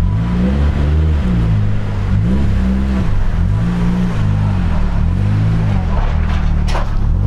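Nissan 240SX S13's engine running as the car creeps up a car-hauler's ramps, revs rising and falling again and again as the driver feathers the throttle and clutch uphill. A sharp clank near the end.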